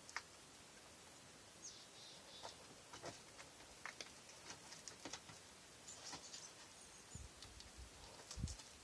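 Faint, scattered scuffs, scrapes and clicks of a climber's shoes and hands on boulder rock, with a couple of low thumps near the end.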